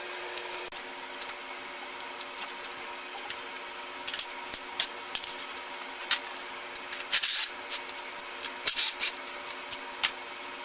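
Hand tools and bolts clicking and clinking as motorcycle parts are unbolted and handled, with two louder scraping rustles in the second half, over a faint steady hum.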